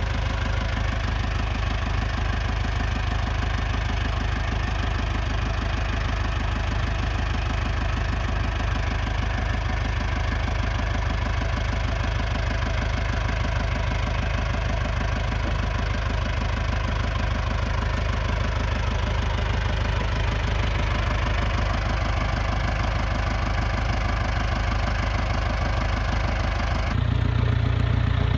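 International 674 tractor's four-cylinder diesel engine idling steadily. Near the end the sound changes abruptly, becoming louder and deeper.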